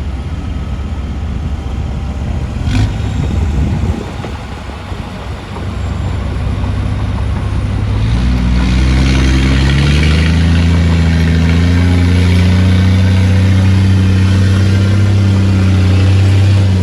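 Heavy diesel engine of construction machinery running, with a single sharp clank about three seconds in; about halfway through the engine revs up and holds a loud, steady pitch under load.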